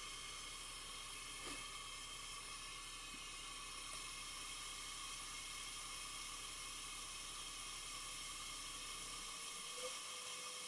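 Steady hiss from the vacuum chuck's suction holding the bowl on the lathe, over a low hum that stops about nine seconds in, with a faint click just after.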